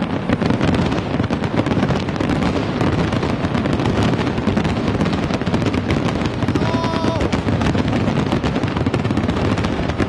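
Fireworks display in a dense, unbroken barrage of rapid bangs and crackles. A brief whistling tone sounds about seven seconds in.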